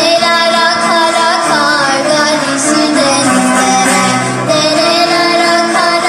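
Bağlama ensemble playing a Turkish folk song while voices sing a long, wavering melody over the plucked strings.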